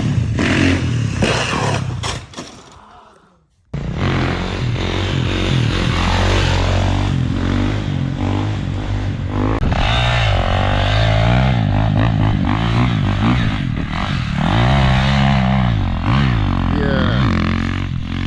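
Dirt bike engine revving up and down again and again. The sound dips almost to nothing for a moment about three and a half seconds in, then picks up again.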